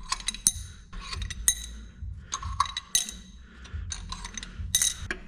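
Steel pushrods from a 6.0L Powerstroke diesel clinking as they are pulled out and handled: a series of sharp metallic clinks, some ringing briefly.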